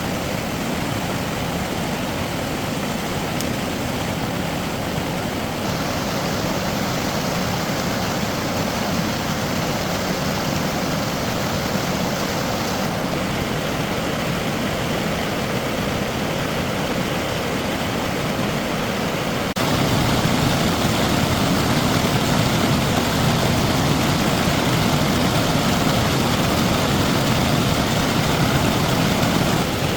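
A machine running steadily. Its sound changes abruptly a few times and is a little louder over the last third.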